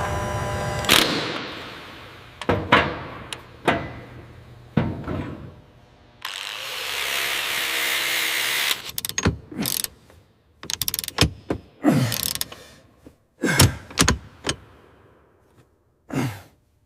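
A run of separate metallic clunks and clicks from hand tools and parts being worked, with a steady hiss of spray for a couple of seconds midway. A steady hum fades out in the first two seconds.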